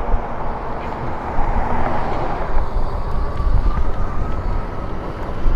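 Road noise from car traffic going by on a busy road, mixed with wind rumbling on the microphone of a moving bike.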